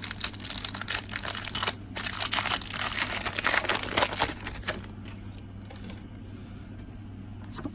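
Foil booster-pack wrapper crinkling as it is torn open, a dense crackly rustle lasting about five seconds before it goes quieter.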